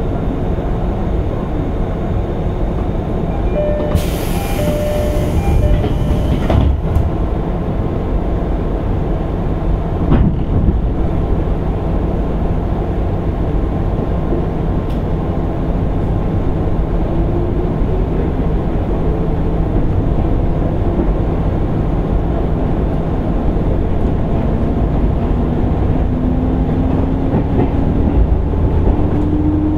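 JR East 205 series 600-subseries electric train running on rails, heard from inside the car: a steady rumble of wheels on track. About four seconds in there is a brief burst of higher-pitched noise. In the second half a motor whine rises steadily in pitch as the train gains speed.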